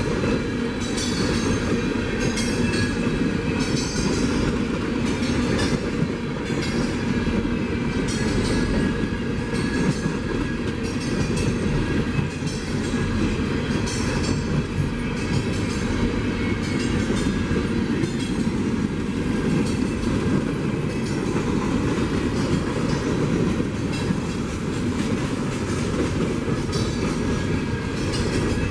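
Railroad cars rolling steadily past, a continuous rumble of steel wheels on rail with repeated clicks as the wheels cross rail joints.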